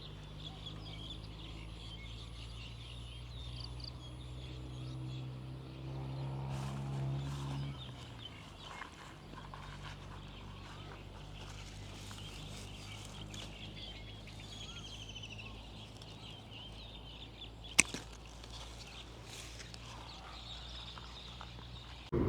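Outdoor rural ambience: birds chirping and calling over a low steady hum that swells for a couple of seconds about a third of the way in, with a single sharp click near the end.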